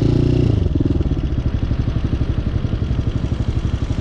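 Hawk 250cc motorcycle engine running at low speed with an even putting beat; its note drops about half a second in.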